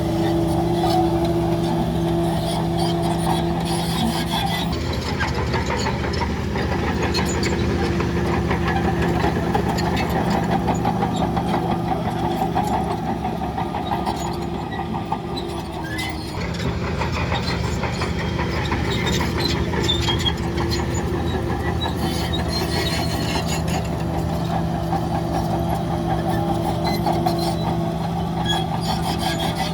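Heavy diesel engine of earthmoving machinery running steadily with a rough clatter, its note shifting about five seconds in and dipping briefly around the middle.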